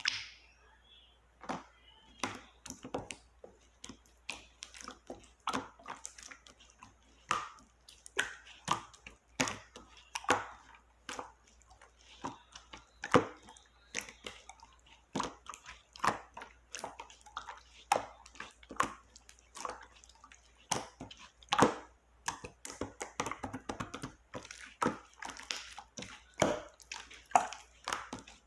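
Clear slime being squished and pressed by hand, giving irregular sticky pops and clicks, a few a second, some louder than others.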